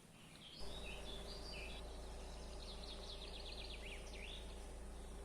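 A songbird singing a series of short high phrases, then a fast trill of repeated notes and a couple of falling notes, over a steady low hum.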